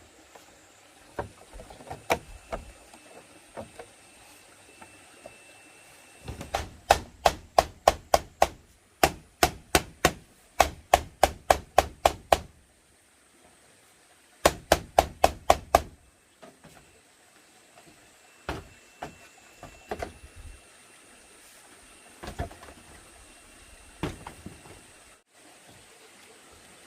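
Repeated blows of a hand tool on bamboo: two runs of quick, even strikes, about three a second, a long run of about six seconds and a shorter one of about a second and a half, with scattered single knocks before, between and after.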